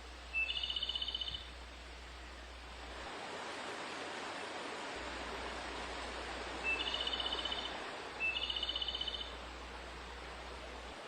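A bird calls three times, once near the start and twice close together later on. Each call is a short note followed by a rapid trill about a second long. Under the calls there is a steady rushing background that swells in the middle.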